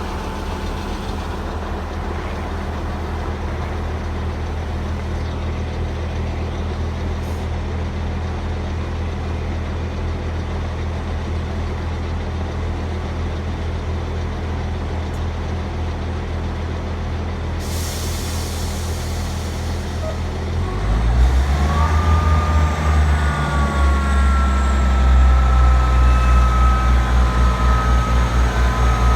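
Coupled Class 158 and 159 diesel multiple unit idling with a steady low engine hum. About 18 seconds in there is a short hiss of air. Then, at about 21 seconds in, the engines power up and get louder, with a rising whine, as the train pulls away.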